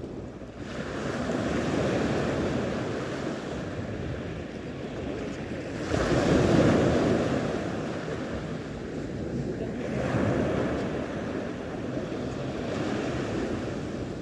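Sea waves washing in, with wind on the microphone; the rush swells three times, loudest at about six seconds.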